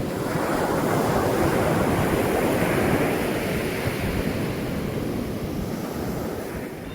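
Ocean surf washing in, a rushing sound that swells over the first couple of seconds and slowly eases off, with wind buffeting the microphone.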